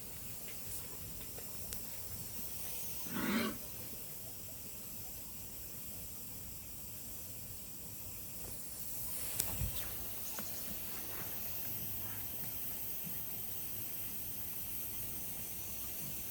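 Highland cow giving one short, low call about three seconds in, over a steady outdoor hiss. Two sharp knocks come near the middle.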